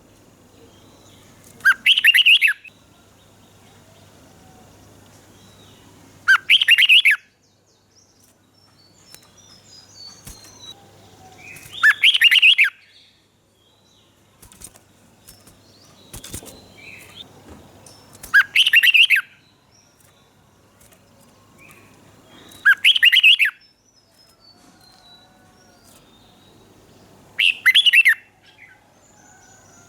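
Red-whiskered bulbul singing: six short, loud whistled phrases of about a second each, repeated roughly every five seconds, with faint chirps between them.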